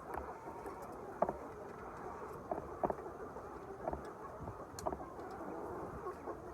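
Steady din of a large flock of chickens, with a few short, louder calls standing out from it.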